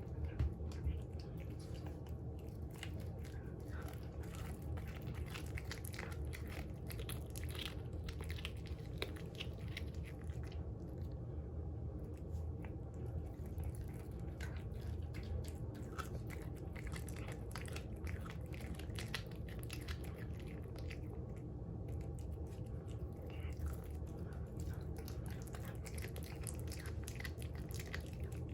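A cat biting and chewing raw meat: irregular wet crunching and clicking bites throughout, over a steady low hum.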